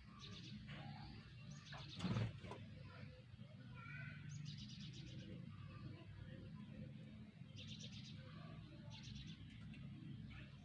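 White-rumped shama (murai batu) giving short, buzzy chattering calls in bursts every one to three seconds, over a steady low hum. A single thump about two seconds in is the loudest sound.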